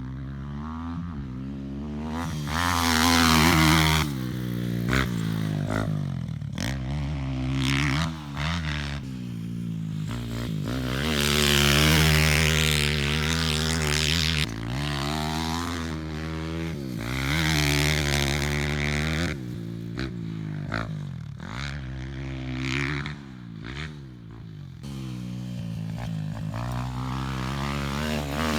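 Piranha P190R pit bike's 190cc single-cylinder four-stroke engine being ridden hard, revving up and backing off again and again, its pitch climbing through the gears and dropping on the throttle, loudest several times as it swells and fades.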